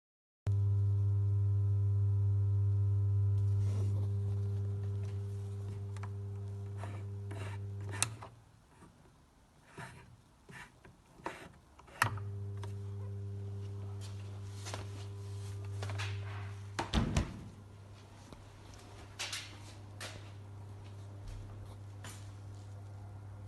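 Vestfrost FKG 371 refrigerator's compressor humming steadily. It cuts out with a click about eight seconds in and starts again with a click about four seconds later. Scattered clicks and knocks come in the gap and afterwards.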